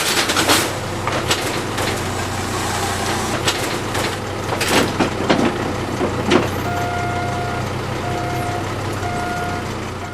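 Euroform formwork panel cleaning and stacking machine running with a steady low hum and irregular knocks and clatter of panels. From about two-thirds of the way in, a warning beeper sounds in repeated beeps about once a second.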